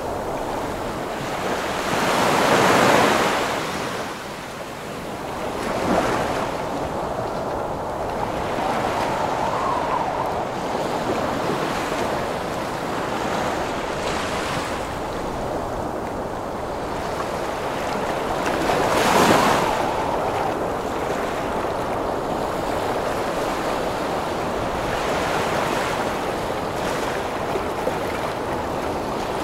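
Heavy ocean waves breaking in a wind storm: a constant rush of surf and wind, with big waves crashing about 3 seconds in and again near 19 seconds, and a smaller one about 6 seconds in.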